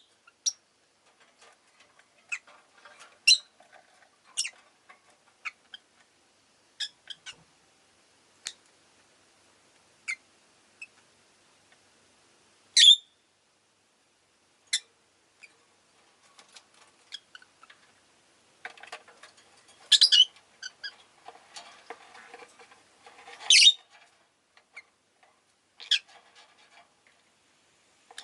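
Rosy-faced lovebirds giving short, sharp, high chirps and squeaks at irregular intervals, with a busier stretch of calling about two-thirds of the way through.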